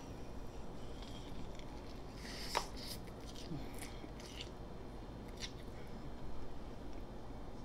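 Biting into and chewing a corned beef sandwich with lettuce, tomato and onion close to the microphone: a scatter of short wet clicks, smacks and soft crunches, the sharpest about two and a half seconds in.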